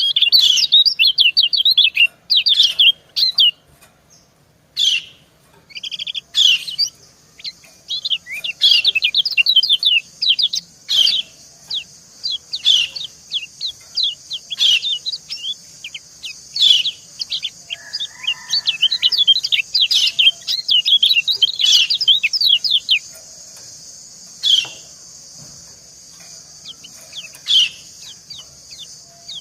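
White-eyes (kecial kuning) calling in quick runs of short, high chirps, the female's 'ciak' calls answering a male. About six seconds in, a steady high hiss starts up beneath them. After about 23 seconds the chirping thins out to a few single calls.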